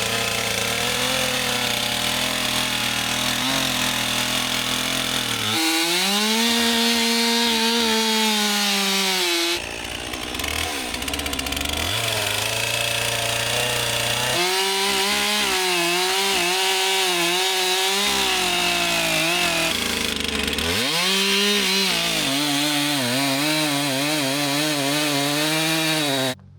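Chainsaw running continuously through a felling cut in a tree trunk, its pitch shifting repeatedly as it works into the wood, then shutting off just before the end.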